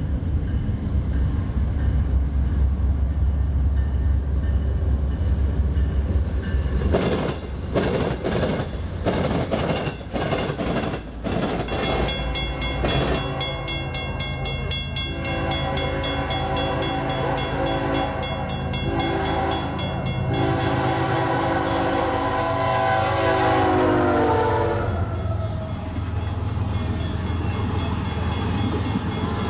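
BNSF diesel locomotives rumbling past. Then a train horn sounds several long blasts as a train approaches, its chord dropping in pitch as the locomotive passes, followed by the clatter of Union Pacific passenger cars rolling by.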